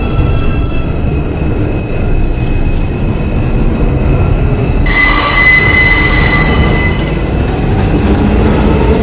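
New York subway R142 train pulling out of the station, its wheels and motors making a loud, steady rumble. About five seconds in, a high wheel squeal sets in and then fades.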